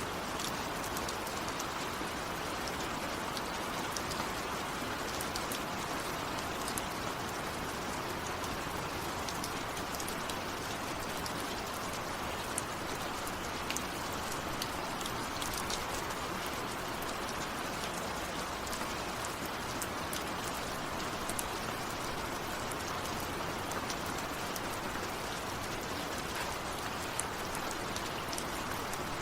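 Steady rain falling, an even hiss with many single drops ticking sharply through it; no thunder.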